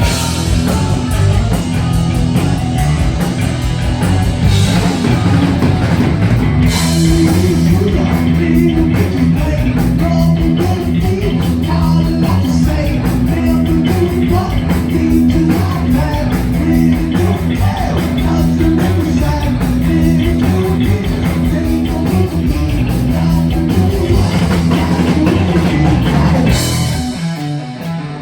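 Heavy metal band playing live at full volume: distorted electric guitar over bass and a pounding drum kit. Near the end the band drops out briefly, then crashes back in.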